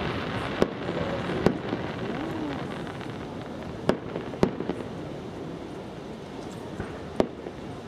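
Aerial fireworks shells bursting: about five sharp bangs at irregular intervals, most of them in the first half, over a steady background hiss.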